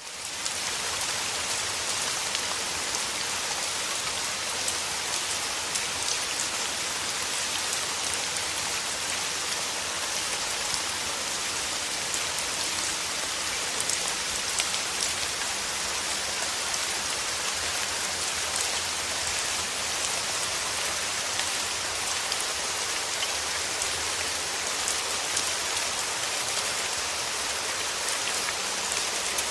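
Steady, heavy rain: a dense hiss of countless small drop hits that holds even throughout, rising in quickly at the very start after a moment of silence.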